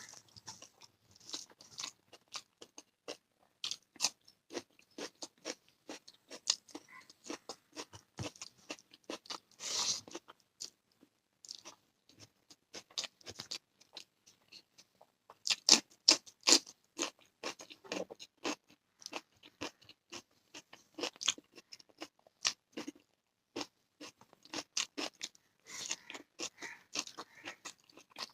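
Close-up eating sounds: steady chewing and crunching of a rice meal with raw onion and green chilli, full of irregular wet mouth clicks. Louder bursts of crunching come about a third of the way in, just past halfway and near the end.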